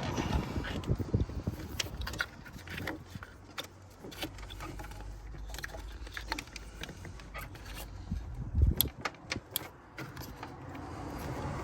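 Scattered clicks, light rattles and small knocks of hands handling parts and tools in a car's engine bay, with a couple of duller thumps about two thirds of the way through.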